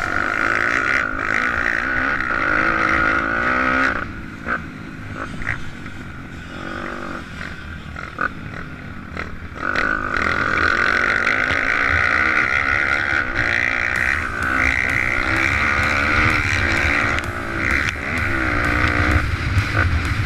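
Pit bike engine revving up and down while riding, with the pitch rising and falling through the gears. It eases off for several seconds in the middle, then pulls hard again.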